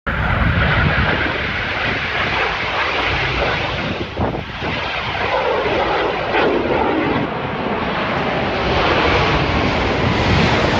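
Snowbirds' CT-114 Tutor jets flying past: a loud, steady jet rush with a sweeping shift in pitch around the middle as they go by.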